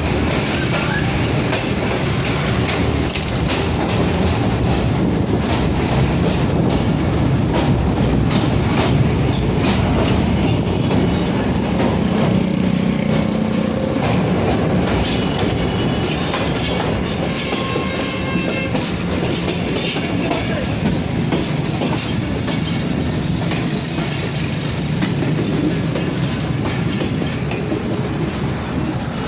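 Passenger train running along the track with a steady rumble and wheels clattering over rail joints, with a faint high wheel squeal around the middle.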